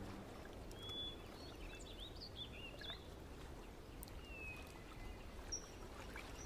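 Faint outdoor ambience with a few scattered bird chirps and short calls; a held music note dies away at the very start.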